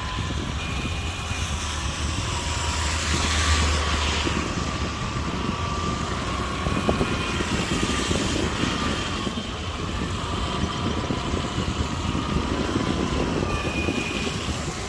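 Street traffic: vehicle engines running and passing, with a heavier rumble swelling about three seconds in, and a few brief high tones such as distant horns.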